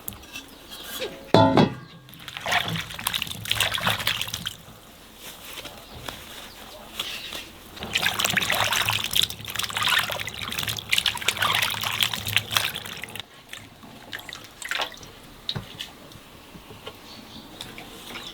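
Water pouring and splashing in two long spells, with smaller trickles and drips between them. A single sharp knock about a second in is the loudest sound.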